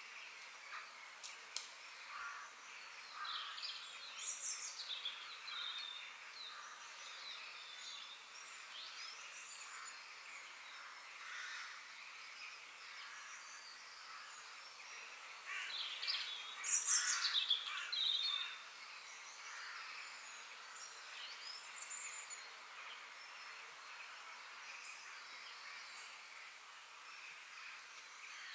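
Several wild birds chirping and calling over each other in forest ambience, short sliding notes over a faint steady hiss. A loud, dense flurry of calls comes a little past halfway.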